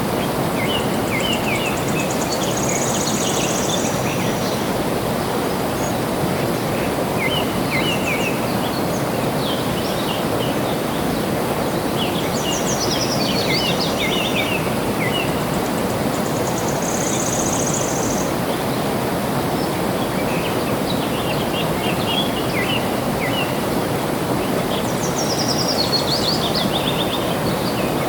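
Steady rush of flowing water with birds singing over it: scattered chirps throughout, two falling trills about halfway and near the end, and a short high buzzing note twice.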